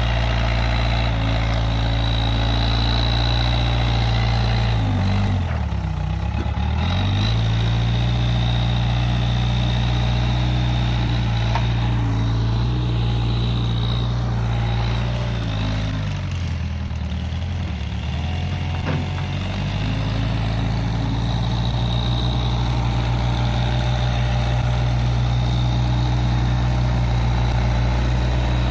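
Case 580G backhoe loader's diesel engine running steadily, twice briefly dropping in speed and picking back up, about five seconds in and again past the middle.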